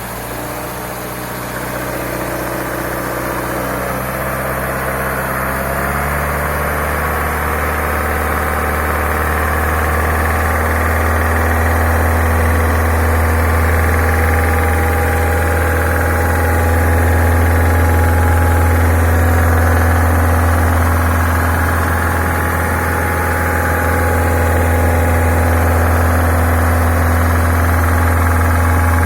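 Peugeot 308's EP6 1.6-litre four-cylinder petrol engine running, its revs rising over the first six seconds and then held steady around 2500–3000 rpm, where the owner hears a knock in the engine although the oil level is fine and there are no engine fault codes.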